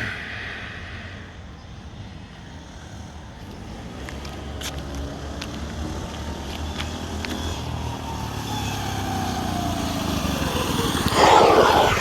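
Coleman CC100X mini bike's 98cc single-cylinder four-stroke engine running through an aftermarket straight-pipe exhaust, its pitch climbing over several seconds as the bike accelerates. A loud rush of noise comes in near the end.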